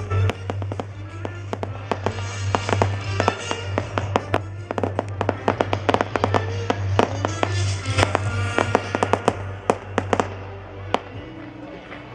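Fireworks display going off in quick succession: many sharp bangs and crackles a second, thinning out near the end, with music playing underneath.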